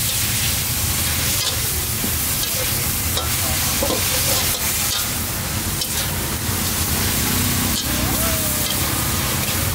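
Food frying in hot oil: a steady sizzle with fine crackling throughout.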